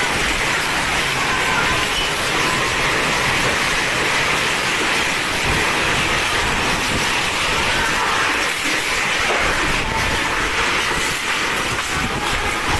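Strong wind blowing steadily and loudly, with faint whistling tones now and then.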